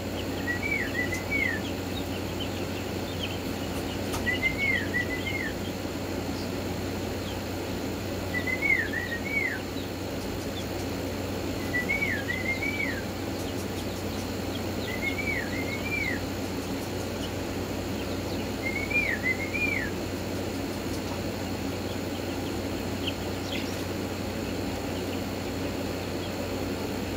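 A bird's short two-note chirp, a quick rise and fall in pitch, repeated seven times at an even pace of about one every three and a half seconds, then stopping. A steady low hum runs underneath.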